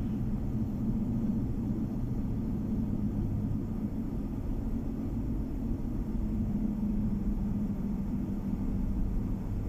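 Car driving on the road, heard from inside the cabin: a steady low drone of tyre and engine noise.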